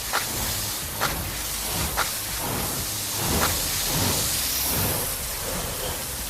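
Loud, steady hissing spray sound effect, with a few short sharp clicks in the first half.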